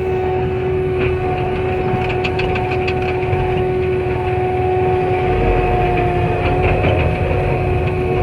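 Skid steer running a Blue Diamond severe duty brush cutter: a steady engine drone with a steady high whine over it and scattered sharp cracks.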